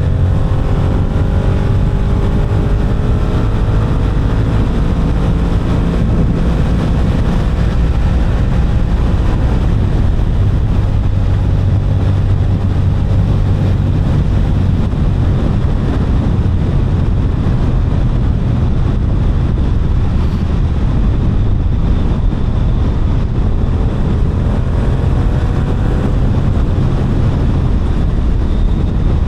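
Yamaha R7 motorcycle's parallel-twin engine running on the move, a steady low drone with wind on the microphone; its pitch rises gently during the first several seconds as the bike accelerates.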